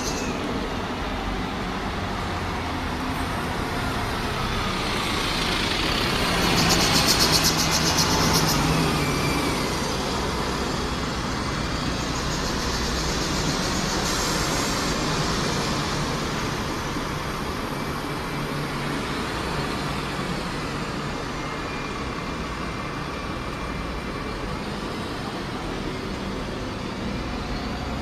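Steady road-traffic noise with a vehicle passing close by, loudest about seven seconds in.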